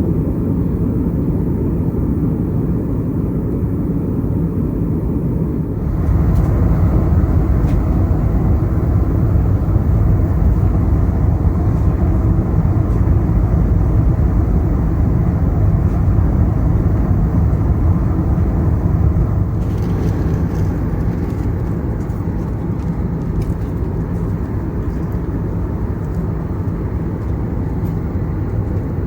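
Airbus A321neo cabin noise: a steady low rumble of engines and airflow that grows louder about six seconds in.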